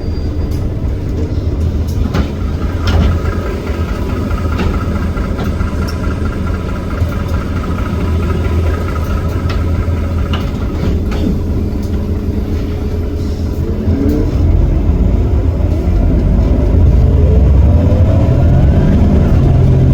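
Iveco Cursor 8 six-cylinder diesel of a Heuliez GX327 city bus running with a steady low drone, then about 14 s in a full-throttle kickdown through its ZF Ecomat automatic: the engine gets louder and its pitch rises as it pulls hard.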